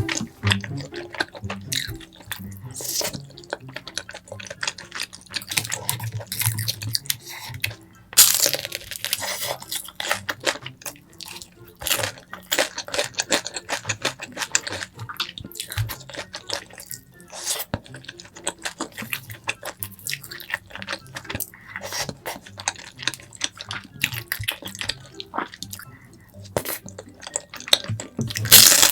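Close-up wet eating sounds of chewy rice cakes in creamy rosé sauce: irregular mouth clicks, smacks and slurps.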